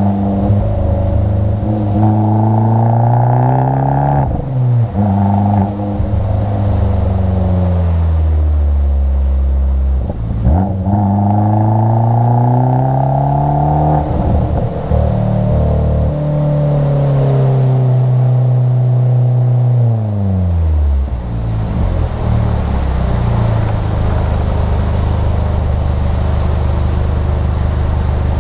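Abarth 500's turbocharged 1.4-litre four-cylinder engine pulling hard, its revs climbing and dropping through several gear changes. The revs fall away in a long slide about two-thirds of the way through, then the engine runs at a steady note near the end.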